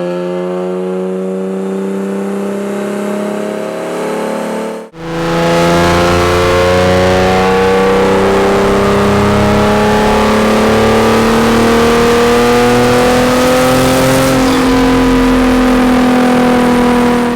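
Turbocharged Nissan 370Z's 3.7-litre V6 running under load on a chassis dyno, its pitch climbing steadily through a pull. The sound breaks off for an instant about five seconds in, then a second, longer pull climbs steadily.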